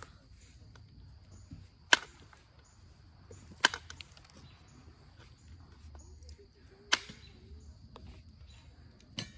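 Four sharp clicks, a second or more apart, as flakes snap off an Onondaga chert point while it is knapped to remove a crystal inclusion.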